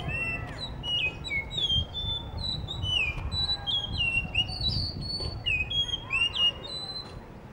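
Blue whistling thrush singing: a rapid run of short, clear whistled notes that slide up and down in pitch, stopping shortly before the end, over a low background rumble.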